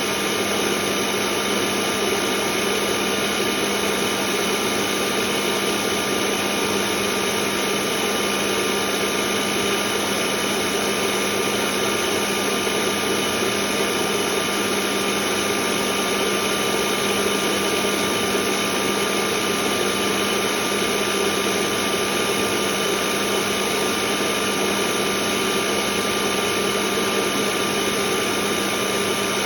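Dumore tool post grinder running steadily at a constant speed: an even motor hum with a steady high whine and no change in pitch.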